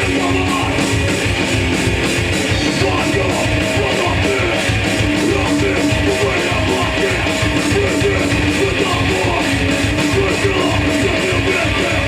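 Live hardcore punk band playing loud and fast: distorted electric guitars and drums with a rapid steady beat.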